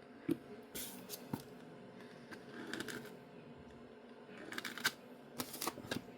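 Scraper dragged across a nail-stamping plate in a few short, faint scrapes, clearing the stamping polish off the plate's engraved design.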